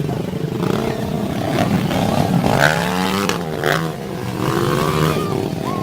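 Dirt bike engines running, with one revving up and down hard around the middle before settling back.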